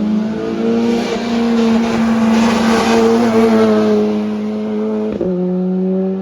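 Rally car engine running hard at high revs, its note held fairly steady, with a rush of tyre and road noise that swells to its loudest in the middle as the car passes close. About five seconds in the engine note steps down abruptly.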